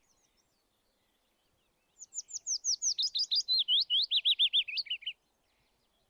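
A songbird singing one song of about three seconds, beginning about two seconds in. It is a fast series of repeated down-slurred whistled notes that steps lower in pitch in stages toward the end.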